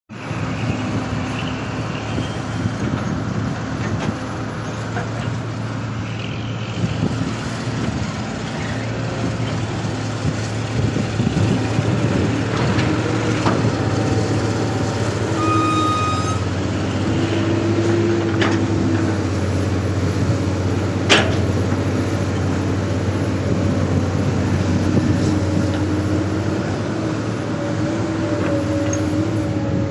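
Hydraulic excavator at work: a steady diesel engine drone with a whine that rises and falls as the hydraulics are worked. A few sharp metallic clanks come through, the loudest about 21 seconds in.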